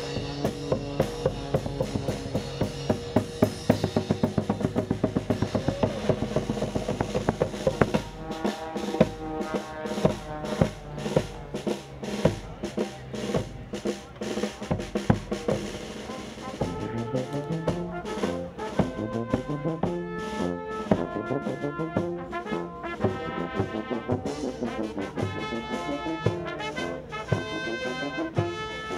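Marine Corps band playing live: a drum kit keeps up fast snare and drum strokes while brass horns hold and move between notes, the horns coming through more clearly in the second half.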